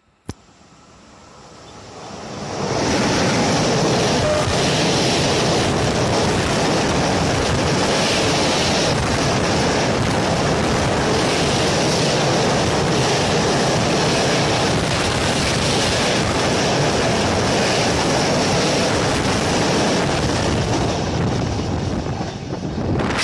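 Freight train of empty container flat wagons, hauled by an electric locomotive, passing close by: the noise builds over about two seconds as it arrives, then a loud, steady rumble and rattle of wheels on rail, easing near the end as the last wagons go by.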